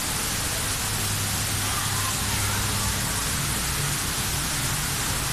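Steady, even hissing noise with a faint low hum underneath, unchanging throughout.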